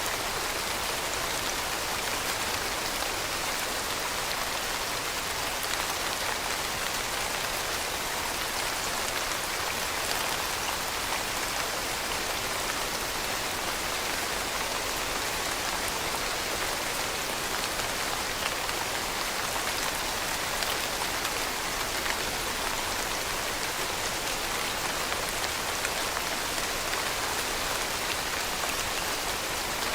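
Steady rain falling, an even hiss of many drops on a surface with no pauses or changes.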